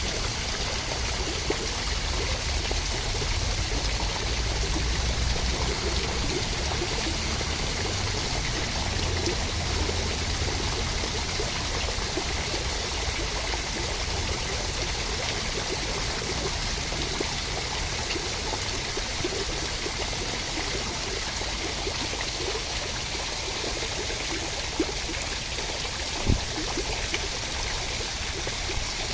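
Steady rushing water, a continuous even wash of sound, with one sharp click near the end.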